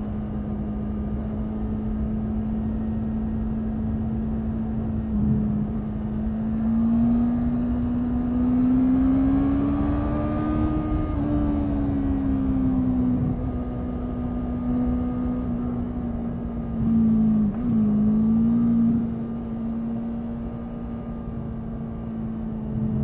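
Honda 650 inline-four motorcycle engine running under way, its exhaust note climbing steadily for several seconds as the throttle opens, then easing back to a steady cruise. Near three-quarters of the way through the note dips briefly and comes straight back.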